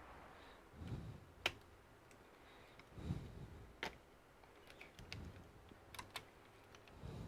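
Faint, scattered clicks and taps of small plastic and metal laptop parts and tools being handled during disassembly, with soft low thuds in between.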